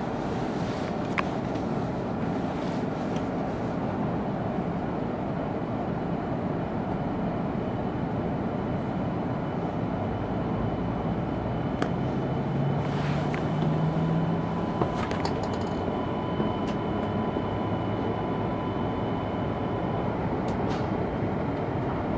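Steady running noise inside the passenger car of an E2 series Shinkansen, with a low hum that swells briefly about halfway through and a few scattered light clicks.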